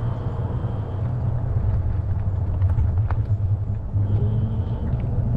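Wind noise on the microphone of a moving e-bike: a steady low-pitched noise with no clear tone, and a few faint clicks.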